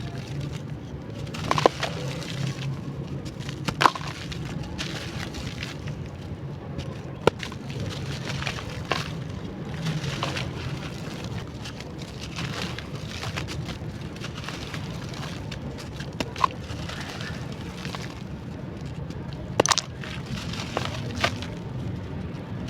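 Dry, crunchy clay chunks cracking and crumbling in the hands: a handful of sharp snaps a few seconds apart, with small crackles between them. A low steady hum runs underneath.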